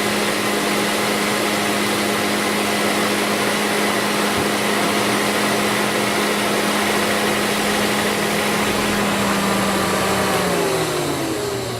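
Electric fan motor of a 2008 Ford Escape Hybrid's air-conditioning system running steadily at full speed with a loud whir and hum, then switched off near the end, its pitch falling as it spins down.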